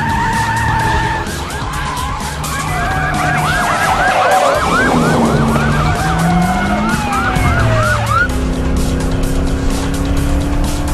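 Police car sirens yelping, rising and falling about three times a second, with several overlapping, over car engines revving in a chase; the sirens stop about eight seconds in while the engines run on.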